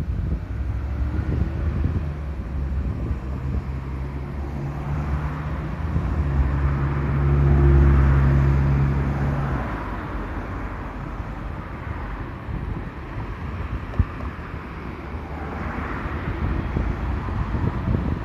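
A train passing with a low rumble and a steady motor hum, which builds to its loudest about eight seconds in and then fades, over constant outdoor noise. There is a single sharp click near the end.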